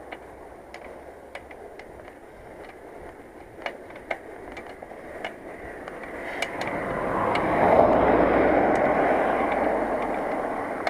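A motor vehicle passes close by: its noise swells from about six seconds in, is loudest around eight seconds, then slowly fades. Before it, scattered sharp clicks come from the bicycle, whose rear hub bearing is failing.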